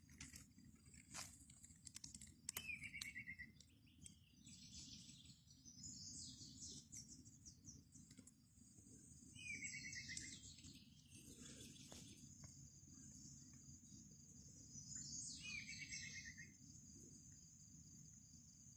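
Faint birdsong: a short descending trill repeated three times, about six or seven seconds apart, each with higher chirps around it, over a thin steady high tone. A few faint clicks come in the first few seconds.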